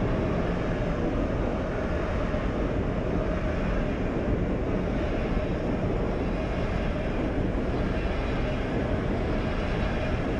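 Swiss SBB double-deck passenger train rolling past at low speed, a steady rumble of wheels on rails.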